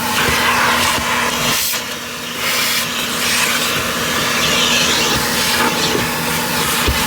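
Car wash water spray hissing steadily over a constant machinery hum, dipping briefly about two seconds in.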